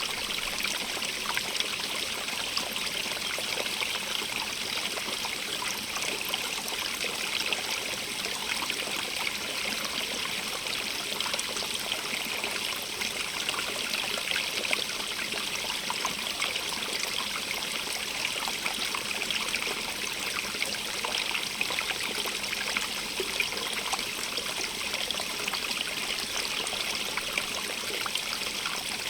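Stream water running over rocks, a steady hiss with a fine, dense splashing and trickling that never lets up.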